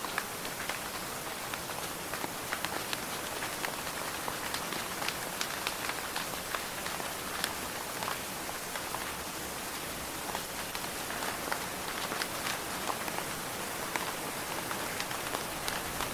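Steady rain falling, with many sharp individual drop hits standing out from the even hiss.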